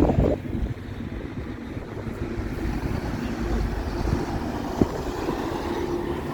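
Bus engine running, a steady low rumble with a faint hum, and wind buffeting the microphone.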